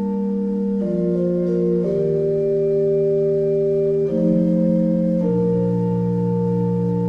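Soundtrack music of sustained organ chords. The held chord changes about four times, roughly a second, two seconds, four seconds and five seconds in.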